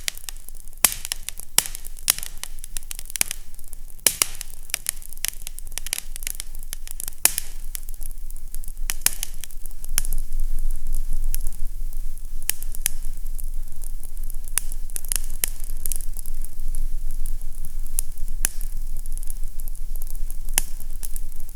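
Fireplace fire crackling: many sharp pops and snaps over a steady low rumble of flames. The pops come thickest in the first half and thin out later, while the rumble grows a little louder about ten seconds in.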